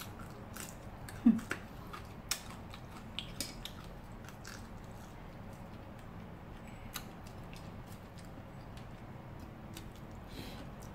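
Eating cooked mussels by hand: scattered clicks of mussel shells being pried apart and handled, with soft chewing and mouth sounds. The sharpest click comes about a second in.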